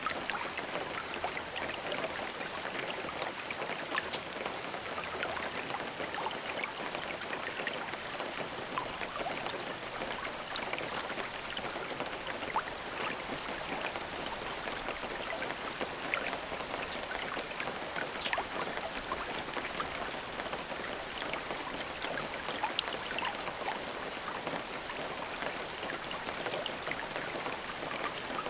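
Steady rain falling, a constant hiss with many individual drops pattering and ticking on a surface throughout, and no thunder.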